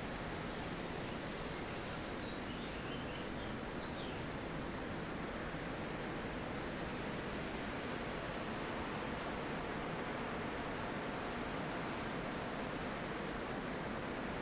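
Steady wind rushing through forest trees, with a few faint bird chirps about two to four seconds in.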